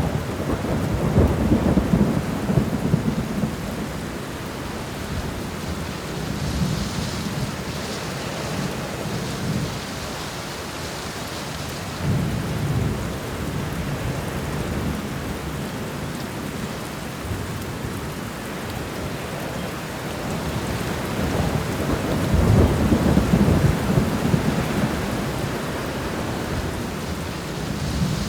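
Steady heavy rain with low rumbles of thunder swelling three times, the longest and loudest in the last third.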